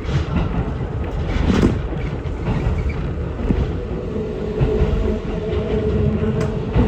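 Ichibata Electric Railway train running along the line, heard from inside the car: a steady rumble of running noise with a faint steady whine, and a few sharp knocks from the wheels.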